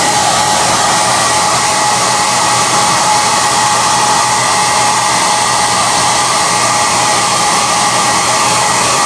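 SOUNATE high-airflow hair dryer running steadily: an even rush of air with a steady motor whine.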